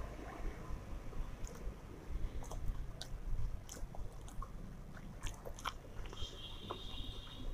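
A person chewing and eating mouthfuls of fried rice by hand, with wet mouth clicks and smacks scattered throughout. A high-pitched tone sounds for about a second near the end.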